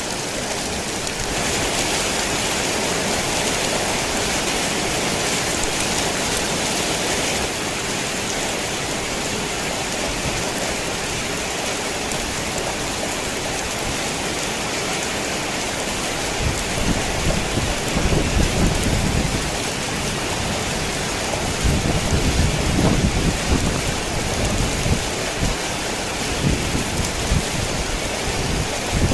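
Torrential rain falling steadily on a worn tin roof, with thunder rumbling low twice in the second half, each roll lasting several seconds.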